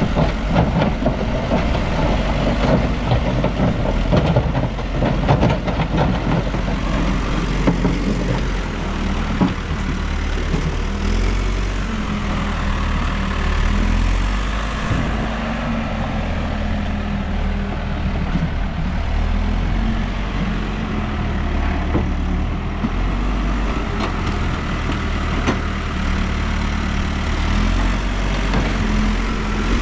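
New Holland backhoe loader's diesel engine running under load, its speed rising and falling as the machine works. Through the first several seconds there are many short knocks and clattering.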